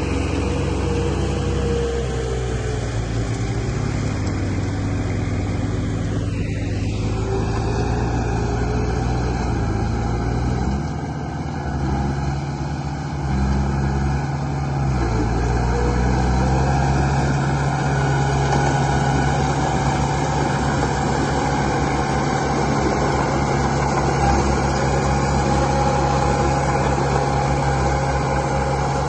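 Radio-controlled model construction vehicle running with a steady engine-like hum. Its pitch steps up or down a few times as the machine works.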